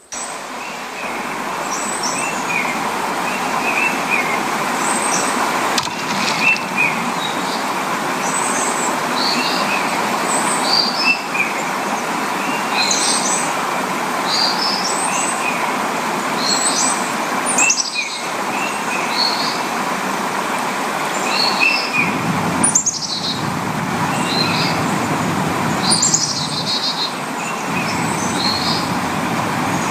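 Small birds chirping over and over, short high calls every second or so, against a loud steady rushing noise.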